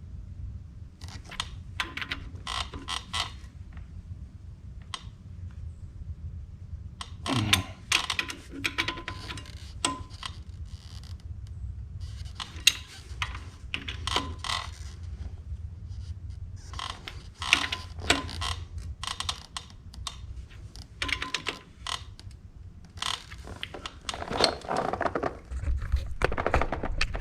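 Irregular metallic clicks and clinks of hand tools and bolts being worked on the engine's flywheel housing, over a steady low rumble.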